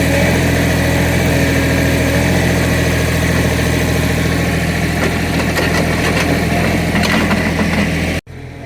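Small Caterpillar excavator's diesel engine running steadily, with short clanks from about five seconds in. The sound cuts off abruptly near the end and a quieter engine sound carries on.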